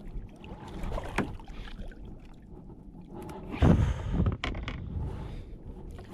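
Water splashing and sloshing against a fishing kayak, with a louder splash about three and a half seconds in and a few sharp clicks and knocks.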